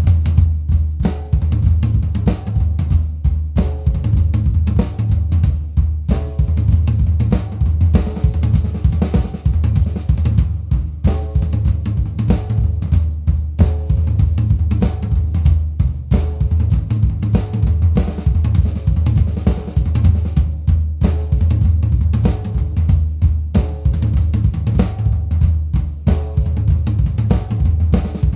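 Drum kit playing a steady rock-style beat, with kick drum, snare, hi-hat and cymbals over a heavy, continuous low end, and short pitched notes recurring in a repeating pattern.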